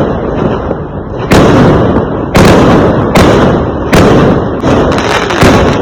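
Fireworks going off: five loud bangs about a second apart, each followed by a rumbling tail that dies away before the next.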